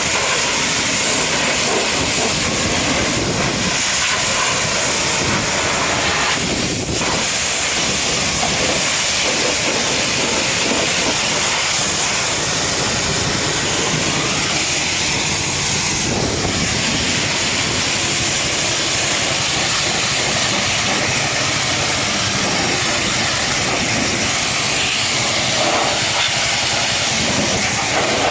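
High-pressure washer jet spraying water onto a truck, a loud, steady hiss that holds at an even level throughout.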